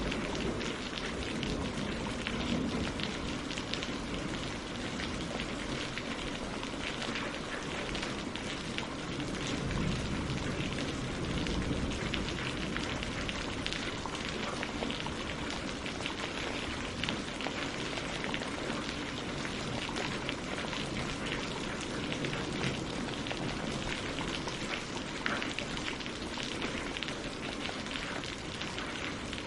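Steady rain falling on tree leaves and lake water: a dense, even patter of drops.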